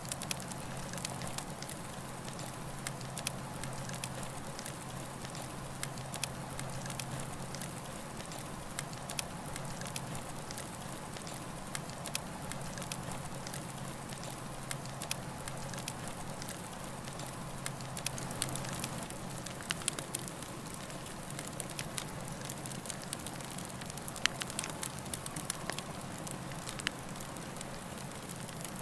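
Campfire burning, with a steady hiss and frequent irregular crackles and pops of the burning wood.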